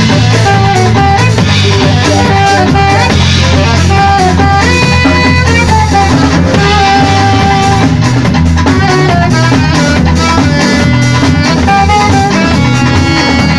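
A live band playing: a drum kit keeps the beat under bass, guitar and a melody of held notes.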